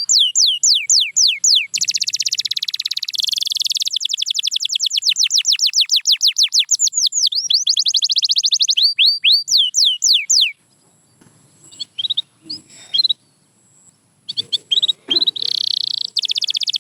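Domestic canary singing: long runs of quick falling whistled notes and buzzy trills, slower notes around the middle, then a break of a few seconds with only a few soft notes before it starts singing again with a trill near the end.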